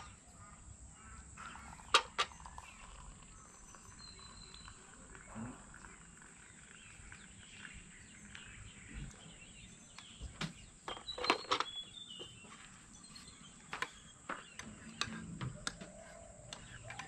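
Quiet outdoor ambience with faint, scattered bird chirps, and a few sharp clicks or taps, the loudest about two seconds in and around the middle.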